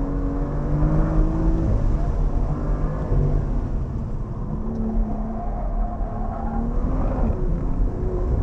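BMW M2's turbocharged straight-six heard from inside the cabin during a hard autocross run. The engine note climbs and drops several times as the throttle is worked through the cones, over steady road and tyre noise.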